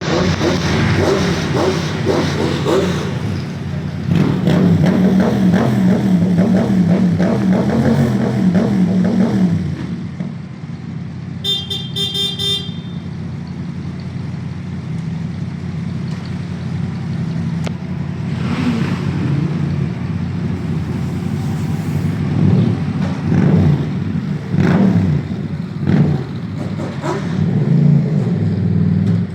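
Motorcycle engines running and revving, loudest over the first ten seconds and then settling lower with a few louder swells. A horn toots briefly about twelve seconds in.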